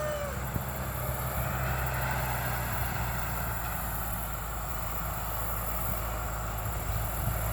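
Bulldozer's diesel engine running with a steady low drone.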